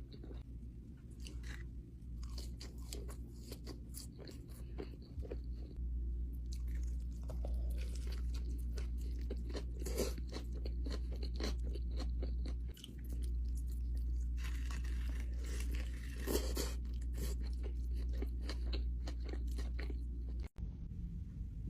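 A person eating crispy food close to the microphone, with a dense run of sharp crunches and chewing that grows louder after the first few seconds. A steady low hum runs underneath, and a brief dropout comes near the end.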